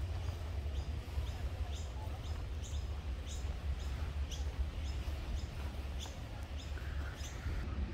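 Small birds chirping, short high notes repeating every half-second to a second, over a steady low rumble.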